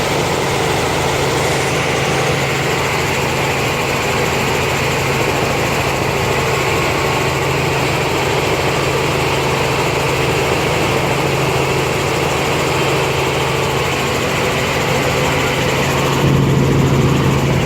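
Helicopter engine and rotor running steadily with a constant low hum, getting a little louder near the end.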